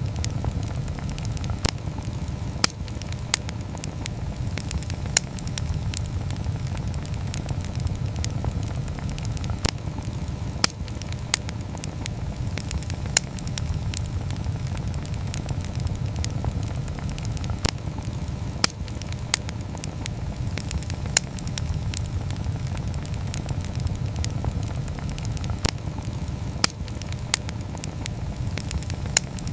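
Campfire burning: a steady low rush of flame with frequent sharp crackles and pops from the burning wood at irregular intervals.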